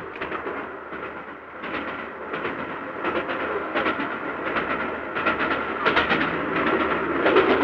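Steam express train running at speed: a steady rumbling rush with wheels clacking over rail joints, about one to two clacks a second at uneven spacing.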